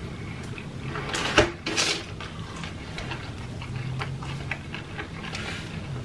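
Close-miked chewing and wet mouth sounds of a person eating, with a few sharp crunchy clicks a little over a second in. A faint low hum runs under it, strongest in the second half.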